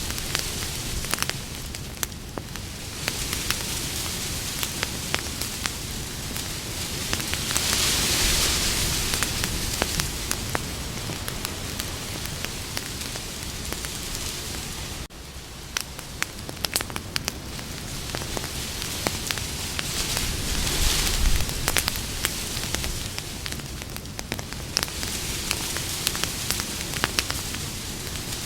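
Campfire burning: wood crackling with many sharp pops over a steady hiss that swells and fades every ten seconds or so. The level dips sharply for a moment about halfway through.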